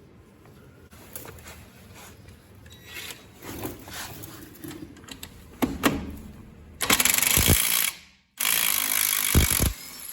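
Ryobi ONE+ R18IW3 18V cordless impact wrench hammering on a lug bolt in two loud bursts of about a second each, in the second half. Before them come lighter clicks and knocks of handling.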